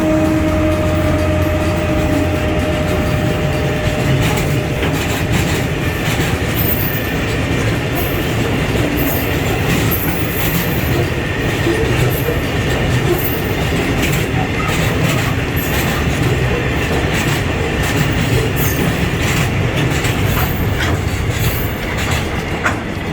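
Train passing close by on the existing line: a diesel locomotive's rumble and the wagons' wheels clicking over rail joints, with occasional brief high-pitched wheel squeals. A horn blast dies away in the first second.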